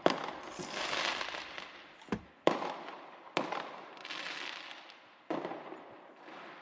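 Fireworks sound effect: a series of sharp bangs, about five in six seconds, each trailing off in a hiss.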